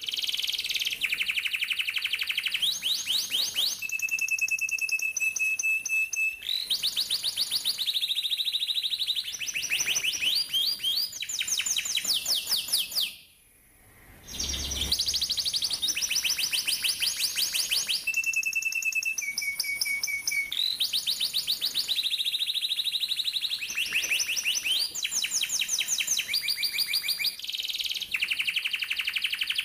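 Domestic canary singing a long song of rapid trilled rolls, with a few short held whistled notes between them. The song breaks off briefly about halfway and then carries on.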